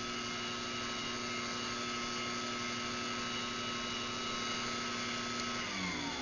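Craftsman garage door opener's electric motor running at a steady pitch on an opening cycle, then winding down in pitch near the end as it stops.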